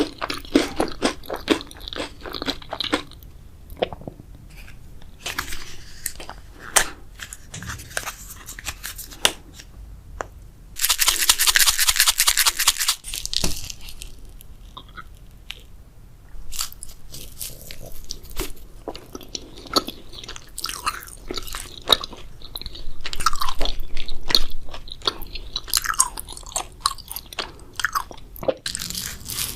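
Close-miked eating of a grape jelly dessert: biting and chewing with many wet clicks and crunches, and a loud rush of noise lasting about two seconds, around eleven seconds in.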